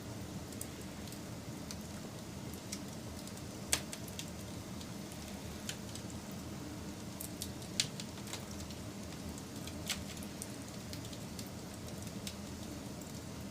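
Wood fire crackling: a steady low rumble and hiss of burning, with scattered sharp pops, the loudest about four and eight seconds in.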